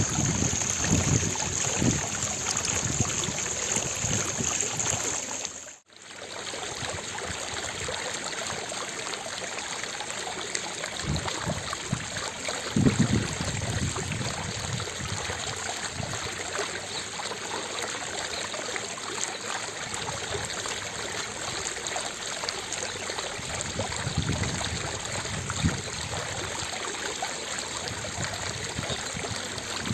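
Water fountain running, its jets splashing steadily into the basin. The sound drops out briefly about six seconds in, then carries on.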